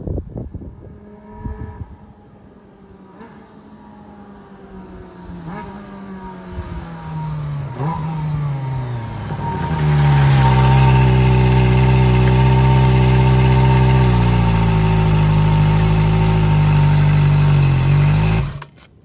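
Kawasaki ZX25R's 250 cc inline-four running through its stock muffler gutted to a full straight pipe, both the pre-chamber and the silencer emptied. A few knocks at first, then the engine note slowly drops in pitch as it grows louder, holds a loud steady note for about eight seconds, and cuts off suddenly near the end.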